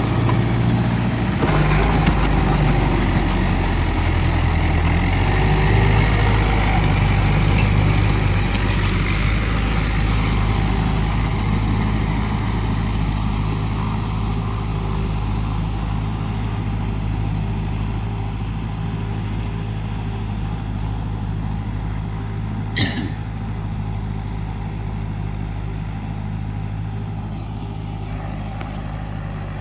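Trakstar 545 DLX tractor's four-cylinder diesel engine running steadily under load while driving a rotavator, slowly getting quieter. A brief high squeak about 23 seconds in.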